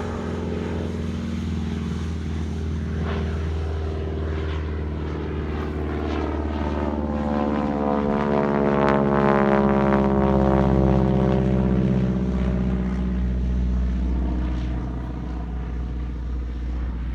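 North American T-6 Texan's single radial engine and propeller running at takeoff power as the plane takes off, growing louder towards the middle and then fading.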